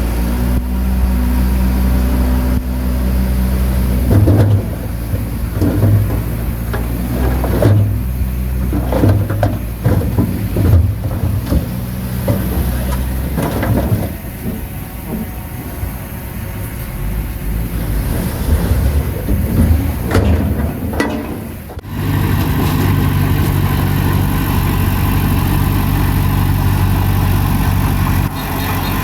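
Heavy diesel earthmoving machine, likely the bulldozer, running under load with repeated clanks and knocks from its work; about 22 seconds in, the sound changes abruptly to a steady engine run.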